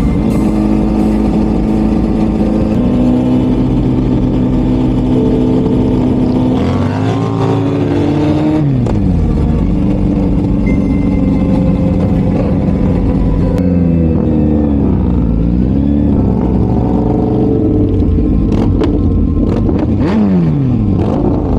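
Motorcycle engines revving loudly, held at steady revs for a few seconds at a time, with the pitch stepping up and down. Revs fall away about seven seconds in, dip and climb again around the middle, and drop near the end.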